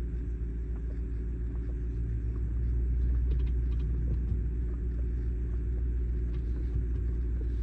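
Mercedes-AMG GT63 S twin-turbo V8 with a straight-piped exhaust running at low revs, a steady low rumble heard from inside the cabin, getting slightly louder about three seconds in. A few faint small clicks come through around then.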